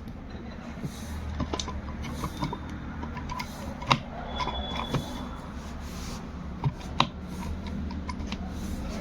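Scattered light clicks and knocks of rotary hammer drill parts being handled during repair, over a low steady hum, with sharper knocks about four seconds in and again near seven seconds.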